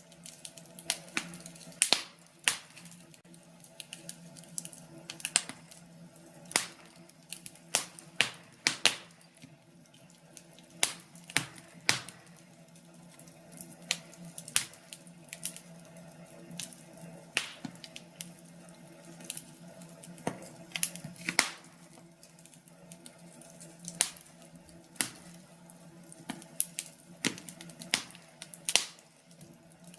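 Wood fire burning in a fireplace, crackling with irregular sharp pops about once or twice a second, over a steady low hum.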